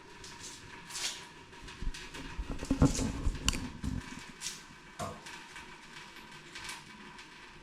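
Knife cutting vegetables on a board with kitchen handling noises: light clicks and scraping swishes, and a run of louder dull knocks about three seconds in.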